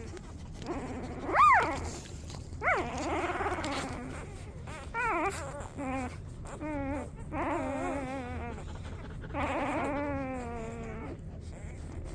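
Golden retriever puppies whimpering and crying. A sharp high squeal comes about a second and a half in and is the loudest, followed by a string of wavering, quavering cries.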